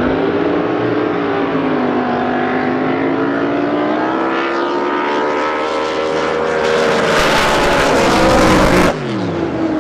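Drag boat's racing engine at full throttle through a run, its pitch climbing slowly and growing louder. About nine seconds in, the throttle is shut off abruptly and the engine note falls away.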